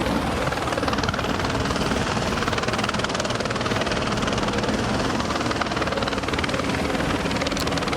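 Police helicopter's rotor and engine noise, a steady, fast, even chop with no change through the stretch.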